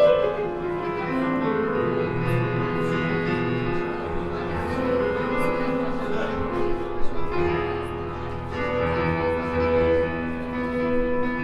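Live jazz trio playing an instrumental passage: piano with long held French horn notes over it and tabla strokes.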